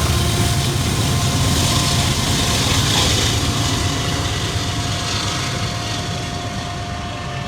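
CSX freight train passing, with the diesel locomotives' engine rumble and the rolling noise of the train, a faint steady squeal on top. The sound holds for a few seconds, then fades steadily as the train moves away.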